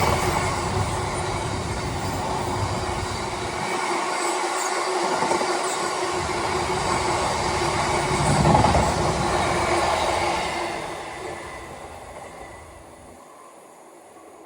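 Freight train's wagons rolling past on the rails with a steady wheel squeal, the noise swelling about eight seconds in and then fading away as the train moves off.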